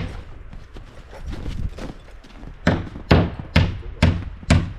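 A run of sharp, evenly spaced knocks, about two a second, starting a little after halfway and heard five times.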